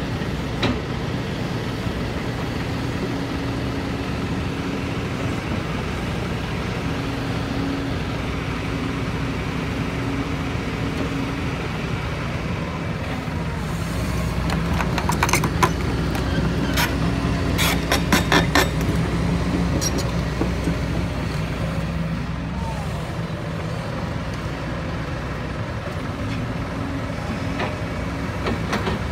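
Heavy diesel machinery engine running steadily. Partway through it grows louder, with a run of sharp metallic knocks and clanks.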